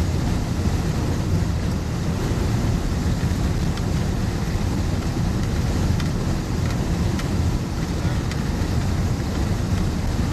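Steady low rumble of a truck's engine and road noise heard from inside the cab, with wind buffeting the microphone, and a few faint ticks near the middle.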